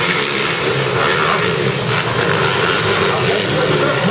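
Several motocross bikes' engines revving together on the track, their pitches rising and falling over one another as the riders work the throttle.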